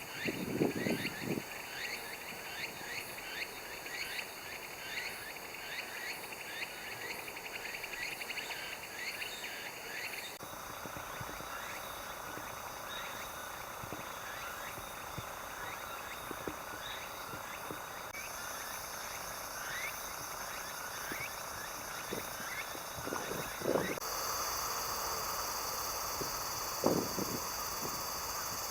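A chorus of animal calls: many short, quick falling chirps repeating rapidly over a steady high-pitched drone, with a couple of soft knocks. The background shifts abruptly three times.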